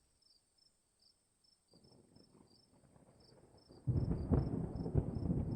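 Thunder rumbling: a faint rumble builds about two seconds in, then breaks into a loud, crackling roll about four seconds in. Crickets chirp steadily throughout.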